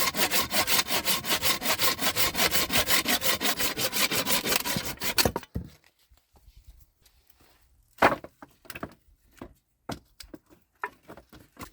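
Hand saw cutting through wood in rapid, even strokes, stopping suddenly about five and a half seconds in. A few scattered knocks of wood follow, one sharp knock standing out near the middle.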